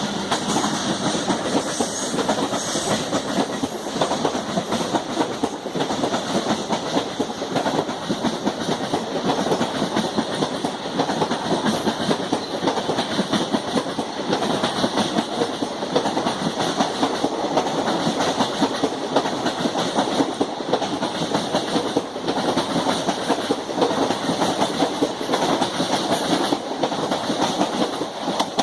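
Passenger coaches of the Deccan Queen express rolling past at speed, with a steady clatter of wheels over the rail joints.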